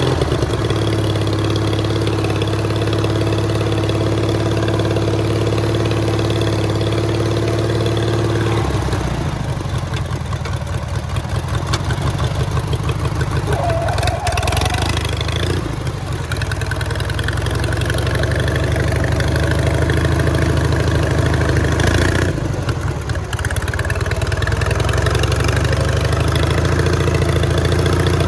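Rebuilt 18 hp riding-mower engine running under way: it holds a steady speed for the first eight seconds or so, then drops to a lower, choppier note with individual firing pulses audible, and picks back up to a steadier, varying speed over the last ten seconds.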